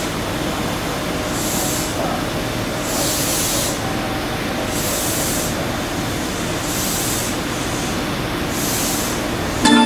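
Semboku Rapid Railway 5000-series commuter train standing at the platform: a steady low hum with a soft hiss that swells and fades about every two seconds.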